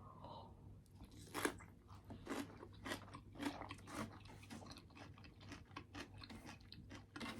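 A person chewing a mouthful of crunchy food, with soft crunches about twice a second.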